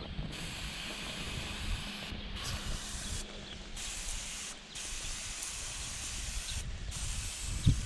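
Sprayer hissing as it sprays hot degreaser onto a transmission case, with several brief breaks in the spray.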